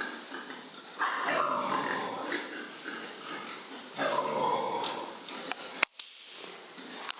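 Animals calling: harsh cries, each about a second and a half long, coming about every three seconds, then a few sharp clicks near the end.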